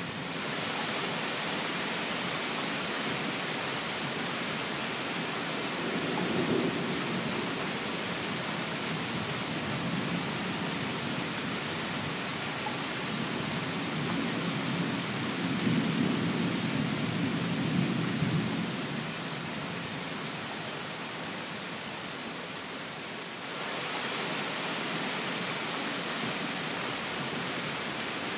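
Steady heavy rain hissing, with low rumbles of thunder swelling and fading a few times, the longest a little past halfway.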